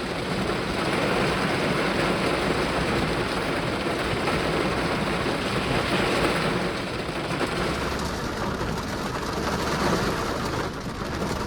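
Steady heavy rain mixed with the road noise of a car driving.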